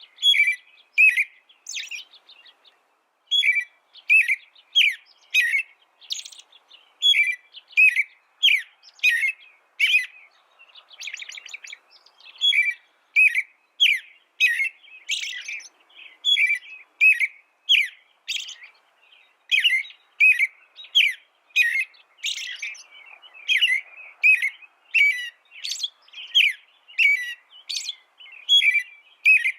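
A songbird singing: short chirping notes repeated about twice a second, with a brief pause about three seconds in and a fast trill near the middle.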